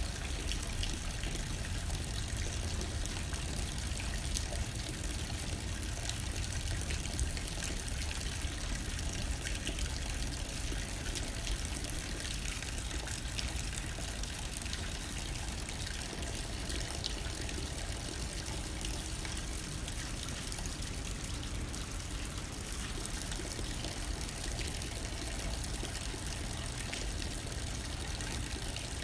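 Steady rain hitting a window, many small drop ticks over an even hiss, with a low rumble of wind underneath.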